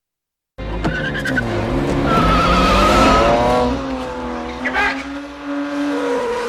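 Car engine revving up and down with tyre squeal, car-chase sound effects that cut in about half a second in after a moment of silence.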